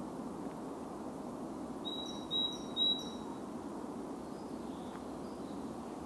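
A songbird calling: three short, level, high whistled notes in quick succession about two seconds in, with a few fainter notes later, over a steady low background hum of woodland ambience.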